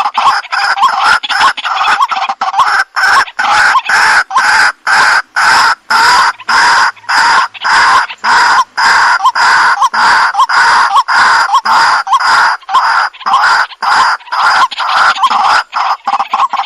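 Waterhen (jal murgi) calling without a break: a loud, steady run of short, harsh croaking notes, about three a second.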